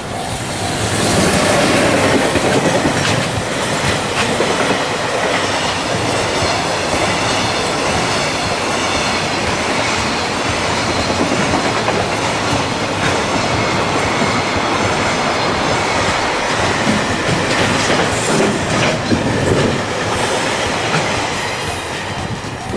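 JR Freight EF210 electric locomotive passing close, followed by a long train of loaded container wagons rolling by with a steady rumble and wheels clacking over rail joints. It is loudest about a second or two in, as the locomotive goes past.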